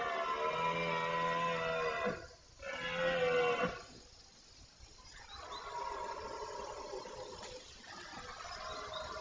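Rutting deer stag roaring: a long bellow that ends about two seconds in, then a shorter, louder one, followed by a fainter, longer roar that carries on to the end.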